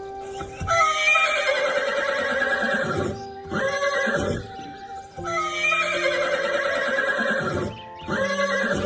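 Horse whinnying: two long, wavering neighs that start high and fall, each followed by a shorter one, over background music.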